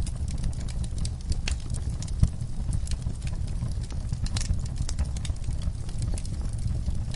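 Wood fire burning in a fireplace: a steady low rumble of flames with scattered sharp crackles and pops, one louder pop a little over two seconds in.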